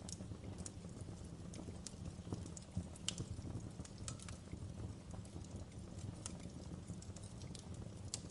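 Wood fire burning in a fireplace, crackling with irregular sharp pops and snaps over a steady low rumble of the flames; the loudest pop comes about three seconds in.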